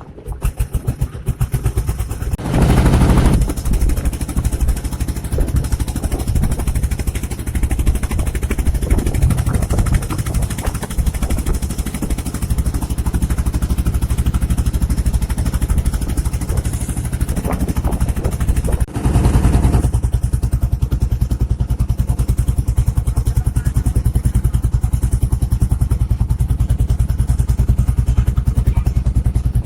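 Small boat engine running steadily, with a rapid, even chugging pulse; it swells louder briefly twice, near the start and about two-thirds of the way through.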